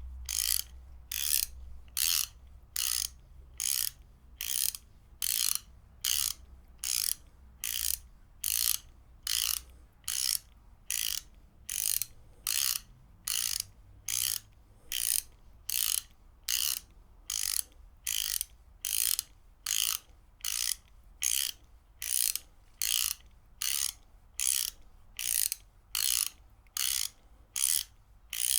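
Ratchet wrench clicking in short, evenly spaced bursts, about three every two seconds.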